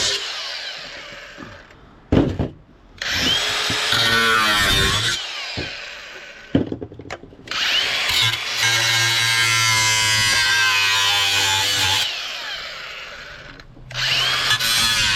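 Power drill run in several trigger bursts, each spinning up and winding down, with short pauses and a few clicks between them.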